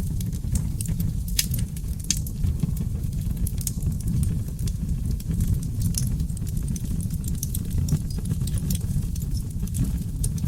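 Wood fire burning in a fireplace: a steady low rumble of flames with frequent, irregular crackles and pops from the burning logs.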